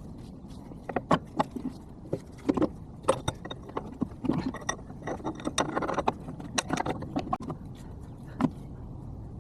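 Quick, irregular metallic clanks and taps of tools and parts being worked on, some with a short ring, in footage sped up four times.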